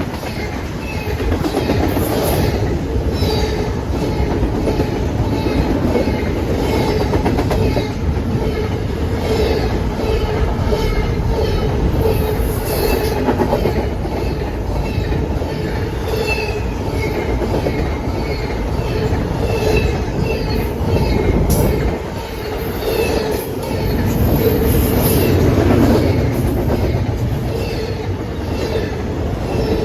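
Freight train cars rolling past, a steady heavy rumble with a held wheel squeal and regular clicks of wheels over rail joints.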